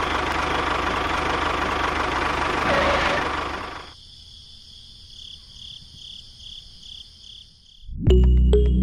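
Steady engine-like running noise of a miniature model tractor, fading out a little before halfway. A faint high pulsing tone follows, and music starts near the end.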